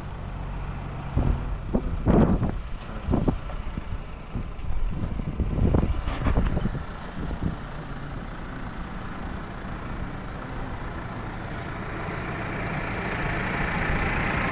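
An engine runs steadily in the background while metal clanks and rattles in two bursts, about two seconds in and again around six seconds in, typical of tie-down chains and load binders being handled. A steady hiss of noise builds toward the end.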